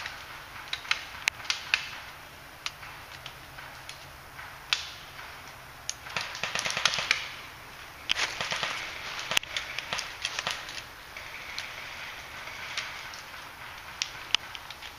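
Footsteps crunching and rustling through dry brush and leaves, with scattered sharp cracks at irregular intervals.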